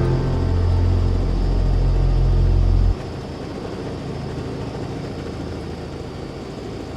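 Helicopter in flight, a steady low engine and rotor drone that drops abruptly to a quieter steady noise about three seconds in.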